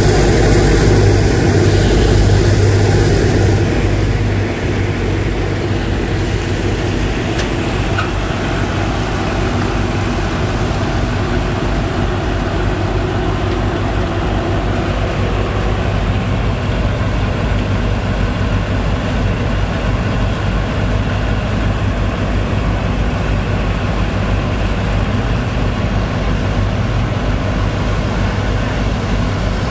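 The engine of a sand-pumping rig running steadily under load as it pumps sand, a loud, even drone. About four seconds in, part of the noise drops away and the level settles slightly lower.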